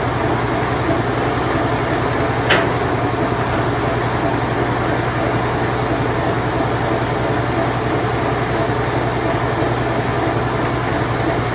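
Circa-1990 Whirlpool Imperial Clean Touch washing machine running its spin cycle: a steady low hum over an even rushing noise, with one brief click about two and a half seconds in.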